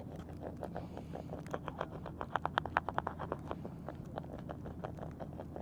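Bar of skate wax rubbed fast back and forth along a concrete curb edge: quick scraping strokes, several a second, loudest in the middle.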